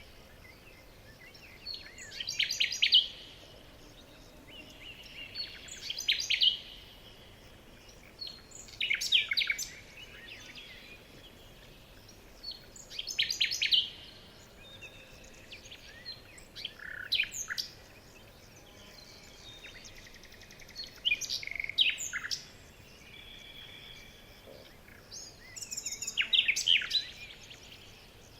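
A songbird singing short phrases of rapid high notes, repeated about every three to four seconds, with fainter bird notes and a low outdoor hiss between phrases.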